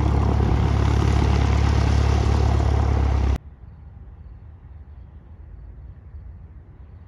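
Light aircraft's piston engine and propeller running loudly and steadily, cut off abruptly about three and a half seconds in; after that only a low wind rumble on the microphone.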